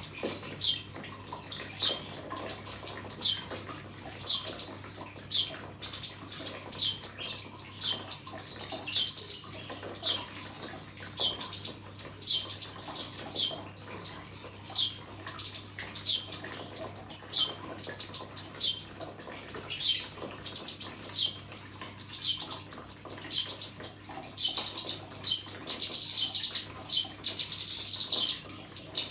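Cucak kinoi singing: rapid, repeated high chirps and short downward-sweeping notes in bursts of song, over a faint steady low hum.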